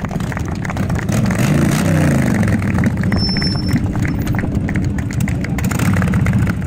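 Harley-Davidson Sportster's V-twin engine running, with the revs rising and falling about two seconds in.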